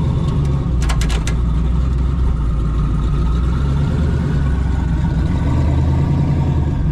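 Car engine idling steadily and loudly, with a few sharp clicks about a second in.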